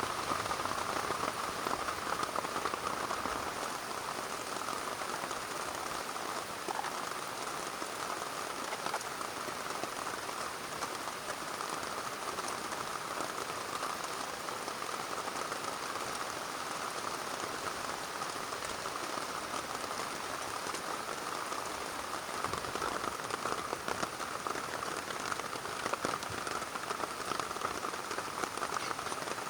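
Heavy rain drumming steadily on a plastic tarp, a dense patter of drops with no let-up.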